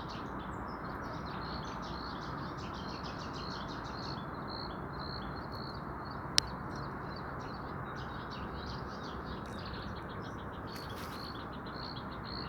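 Small birds chirping in quick, repeated short notes over a steady background hiss, with one sharp click about halfway through.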